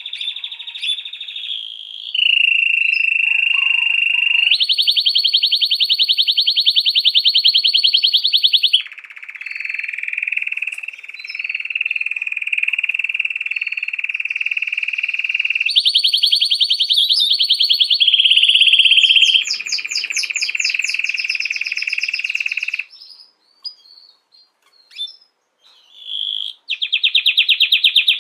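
Domestic canary singing a long, continuous song of sustained high rolls alternating with rapid trills, broken by a few short pauses near the end.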